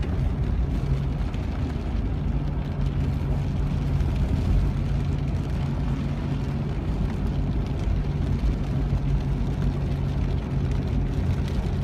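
Car being driven: a steady low engine and road rumble with a faint steady hum.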